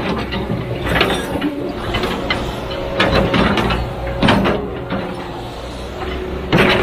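A heavy machine's diesel engine running steadily, with irregular clanks and scrapes of metal every second or two.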